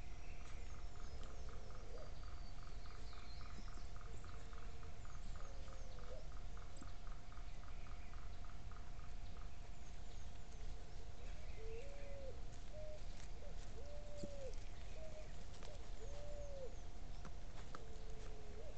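Wild birds calling in forest: short low notes that bend up and down in pitch, repeated every second or two, over a fast pulsed call series in the first half and a few high chirps. A faint steady whine and a low rumble run underneath.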